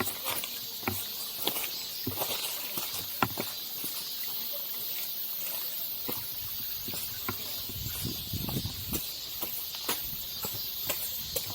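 Strong wind on the camera microphone: a steady hiss with a low buffeting rumble that swells about eight seconds in, and scattered sharp clicks and taps throughout.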